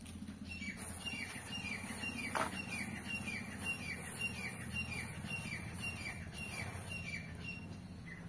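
A bird repeating a short falling chirp about twice a second, some fifteen times over, with one louder falling sound about two and a half seconds in.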